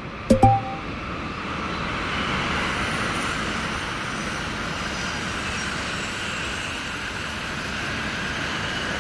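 Train passing at speed, its running noise building about two seconds in and holding steady. Two short sharp sounds near the start.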